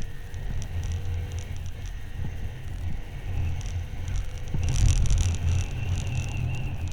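Motorcycle engine running while riding, a steady low rumble that swells briefly about two-thirds of the way through.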